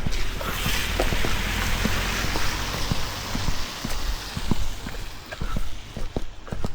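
Steady wet hiss of tyres on a rain-soaked road as a vehicle passes, swelling in the first second and fading away after about four seconds, followed by a run of quick footsteps on wet pavement.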